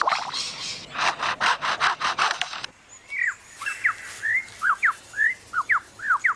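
Superb lyrebird mimicking foresters' chainsaws and sawing: a rapid run of harsh rasping strokes, about seven a second, that stops a little under three seconds in. It follows with a string of clear whistled notes that swoop up and down in pitch.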